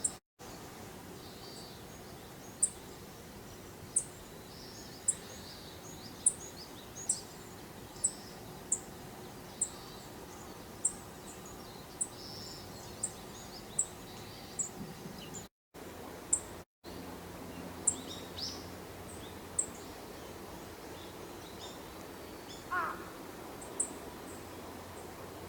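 A wild bird repeating a short, high, thin call note about once a second, with softer chirps between, against steady outdoor background noise. A lower, falling call comes in briefly near the end.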